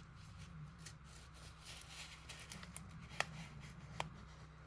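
Faint rustling of paper being handled and laid out, with two small clicks about three and four seconds in.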